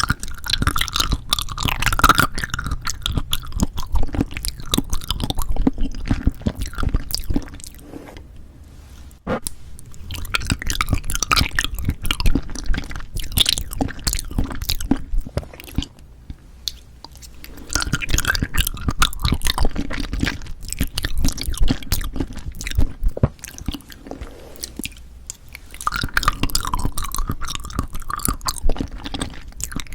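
Close-miked mouth sounds of cheonhyehyang citrus cup jelly being chewed and squished: dense wet clicks and smacks in bouts, with a short pause about every eight seconds.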